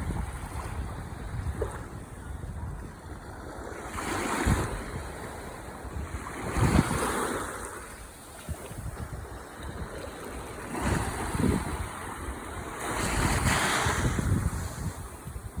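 Ocean waves breaking and washing up the shore, four surges a few seconds apart over a steady low rumble, with wind buffeting the microphone.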